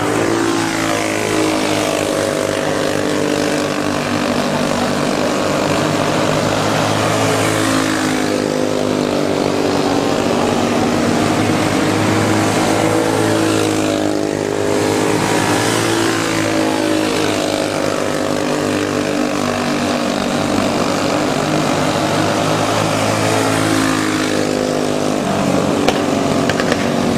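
Racing go-kart engines running hard, their pitch rising and falling, with louder surges every several seconds as karts go by.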